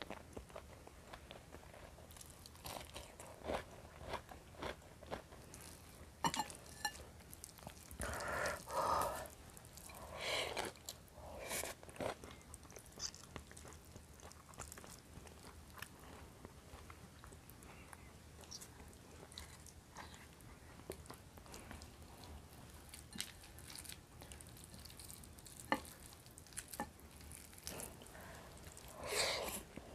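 Close-up eating sounds from a clip-on microphone: a person chewing and biting rice, fried fish and chili sambal eaten by hand, with many small mouth clicks and smacks and a few louder ones.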